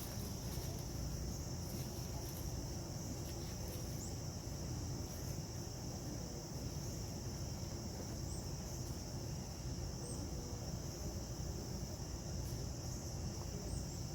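Insects chirping in a continuous high, even chorus, over a steady low rumbling outdoor background.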